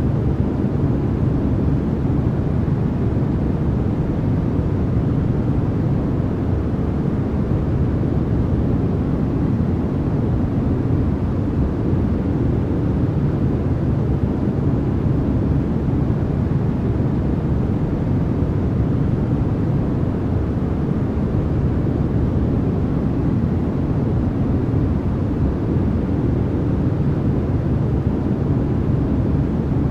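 Continuous generated noise track sold as white noise, an even, unchanging rush weighted toward the deep end, more rumble than hiss.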